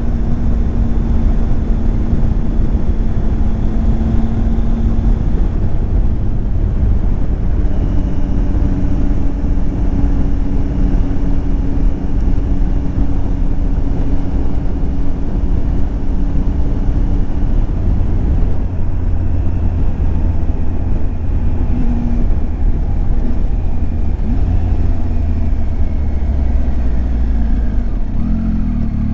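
Triumph Tiger 800 XCX's three-cylinder engine running on the road under heavy wind rush, its note holding steady for stretches and shifting in pitch a few times as the speed and gearing change.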